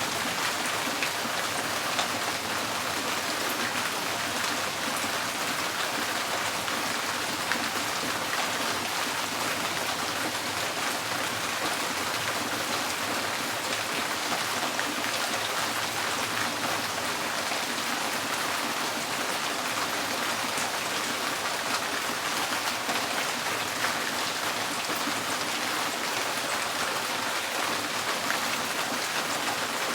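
Rain falling steadily on a tin porch roof: an even hiss dotted with many small, sharp drop ticks.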